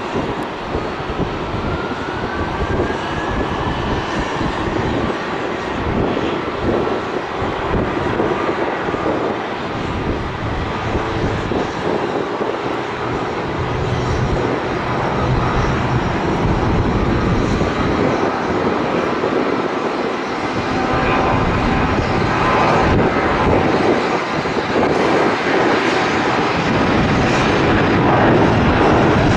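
Airliner engines running steadily, the roar slowly growing louder toward the end.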